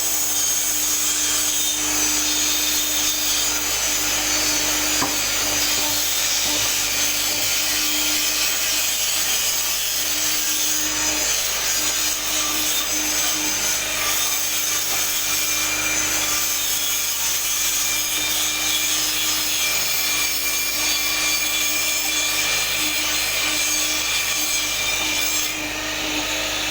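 Hydraulic press running steadily with a continuous hissing, rasping noise over a steady hum while its ram moves down.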